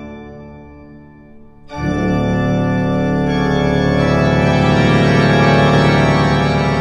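Background organ music: a held chord fades away, then about two seconds in a loud new sustained chord comes in and swells.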